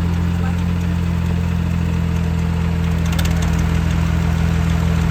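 Tractor diesel engine held at a steady high speed right after being revved up, running evenly, with a brief rattle about three seconds in.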